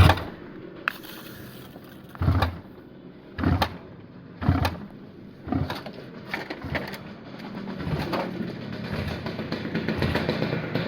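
Honda CD 175 motorcycle being kick-started: five heavy kicks about a second apart, each a short thud, without the engine running. A steadier noise builds near the end.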